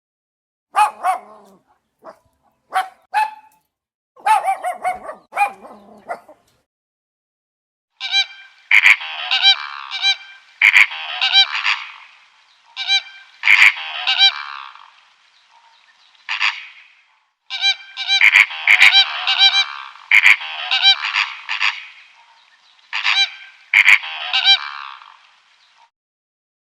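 Animal calls: a few scattered short calls at first, then from about eight seconds dense bouts of many overlapping pitched calls, broken by sudden cuts to silence.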